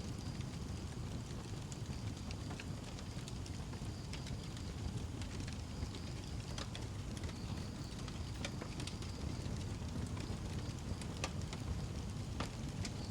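Wood fire burning in a fireplace: a steady low rumble of flames with scattered sharp crackles and pops from the burning wood, over a faint high hiss.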